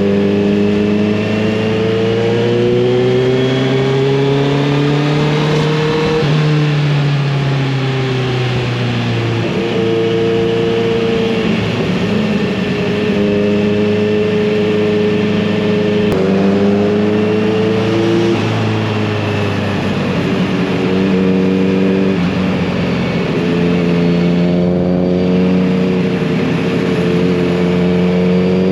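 Kawasaki Z900RS inline-four motorcycle exhaust under way. The engine note climbs in pitch and drops sharply at upshifts, about six seconds in and again around sixteen and eighteen seconds, with steadier cruising stretches between.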